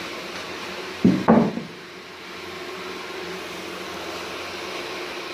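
Two quick wooden knocks about a second in, over a steady low hum.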